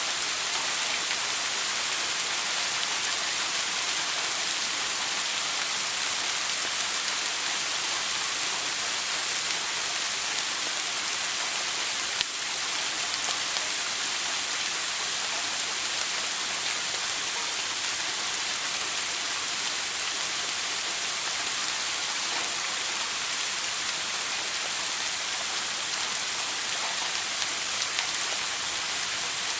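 Shower water spraying steadily: an even, hissing patter of running water, with one brief click about twelve seconds in.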